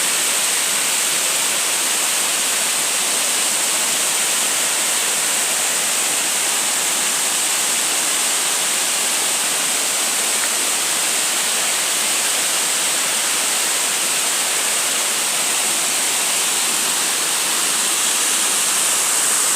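Steady, unbroken rushing of running water, such as a waterfall or fast stream.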